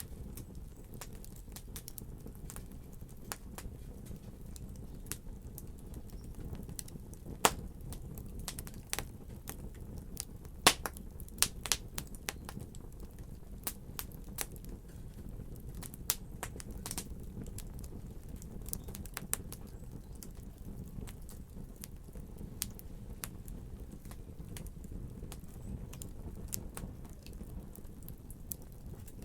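Wood fire crackling in a fireplace: irregular sharp pops and snaps over a low steady rumble of the burning, with two louder pops at about 7 and 10 seconds in.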